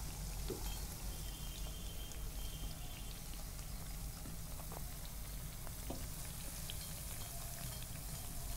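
Urad dal and arbi leaf vadas sizzling and crackling steadily in hot oil in a kadhai, with a few faint clicks.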